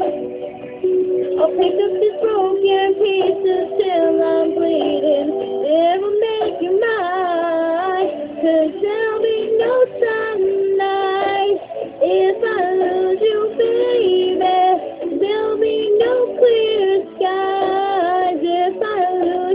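A young female voice singing a slow pop ballad, with held notes and sliding runs that bend up and down in pitch.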